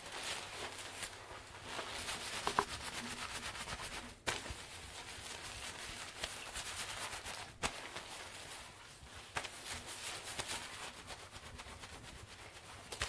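Wet long hair being handled and rubbed, a dense crackling rustle that runs on unevenly, with two sharp clicks, one about a third of the way through and one just past halfway.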